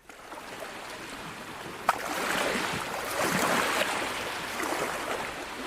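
Water lapping and splashing at a lake shore, a steady wash that swells a little after about two seconds, with one sharp knock about two seconds in.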